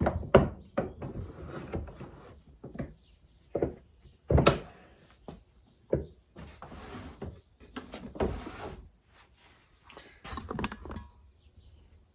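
Irregular knocks and clunks of fork parts and tools being handled and set down on a workbench, with one loud knock about four and a half seconds in.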